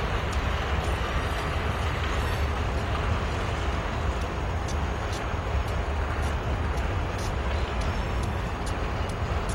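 Steady low rumble of Union Pacific diesel freight train, with short light clicks and ticks scattered through it.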